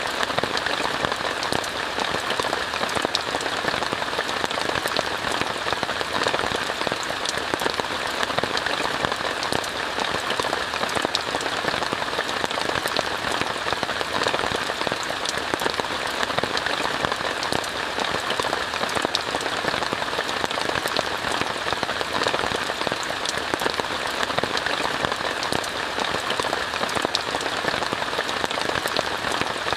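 Steady rain falling on a tent, a dense even patter of drops.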